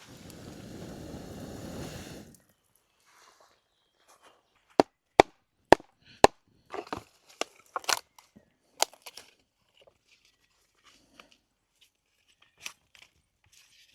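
Rustling, scraping noise for about two seconds, then four sharp chopping strikes on wood about half a second apart, followed by a scatter of lighter knocks.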